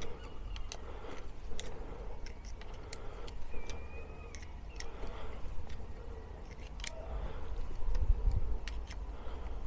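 Irregular small metallic clicks and taps of a spanner working the rear shock absorber's mounting bolt on a Seat Ibiza, over a steady low rumble.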